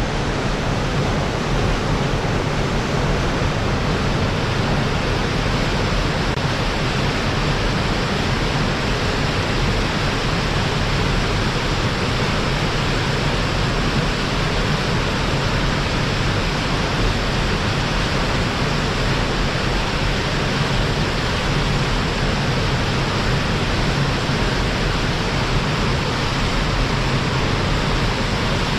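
Waterfall's falling water, a steady, even rushing roar with no change throughout.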